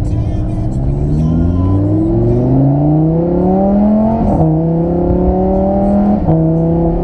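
Lamborghini Huracán's V10 heard from inside the cabin, accelerating with its pitch climbing steadily. The dual-clutch gearbox makes quick upshifts about four seconds in and again about six seconds in, each dropping the engine note sharply before it climbs again.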